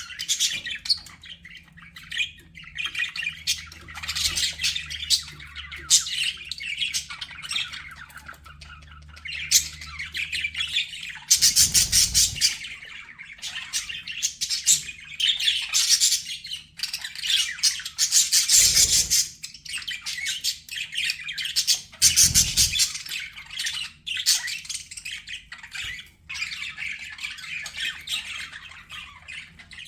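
Budgerigars chirping and warbling in a continuous, overlapping chatter, with three louder, harsher squawking bursts spread through it.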